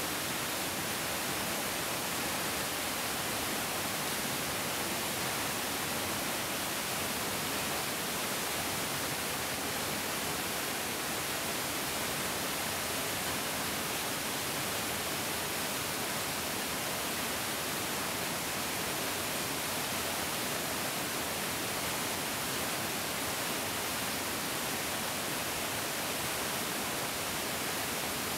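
Mountain stream rushing steadily, a constant dense hiss of flowing water with no breaks or changes.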